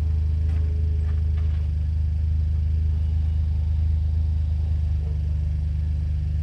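VW Golf VR6 engine idling steadily with a low, even rumble and no revving.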